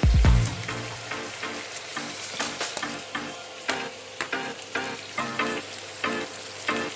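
Broiler chicken pieces frying in a little cooking oil, sizzling steadily, while a utensil stirs and scrapes them in the pan in quick repeated strokes. A few heavy knocks come right at the start.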